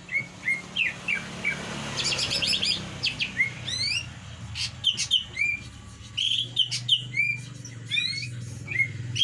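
Small birds chirping: many short, rising chirps and a few quick runs of notes, over a low steady hum.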